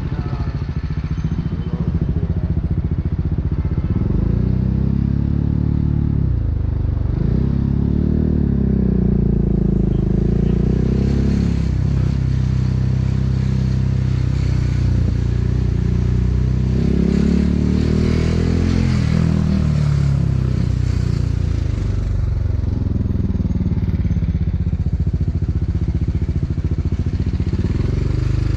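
BMW G 310 R single-cylinder motorcycle engine through an Akrapovic racing exhaust, running low at first. About four seconds in its pitch starts to climb, then drops back and rises again several times as the bike accelerates, before settling lower near the end.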